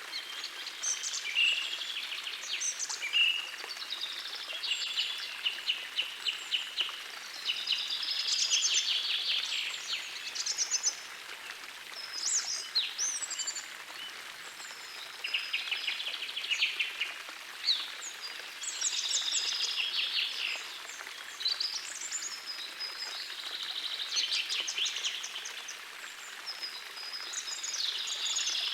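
Several songbirds singing busy, overlapping phrases over the steady rush of a gentle forest stream.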